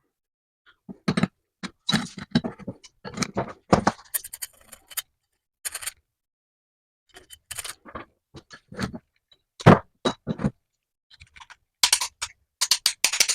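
Irregular knocks, clicks and scrapes, like tools and hard parts being handled on a workbench, with a quick cluster of clicks near the end.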